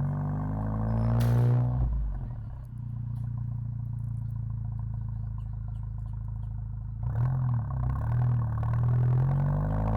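Turbocharged 2.0-litre four-cylinder of a 2016 VW Golf GTI Mk7, breathing through a 3-inch downpipe and non-valved cat-back exhaust, accelerating with rising pitch, then a short hiss from the blow-off valve as the throttle closes about a second in. It runs steadily at lower revs for several seconds, then revs up again from about seven seconds in, with a brief dip at a gear change.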